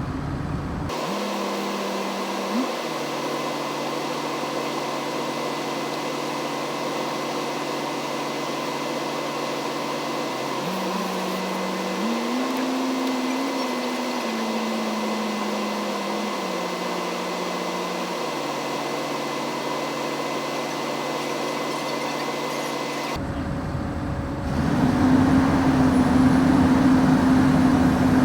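Diesel engine of heavy logging equipment running steadily, its pitch stepping up about halfway through and settling back down as the throttle changes, then growing louder near the end.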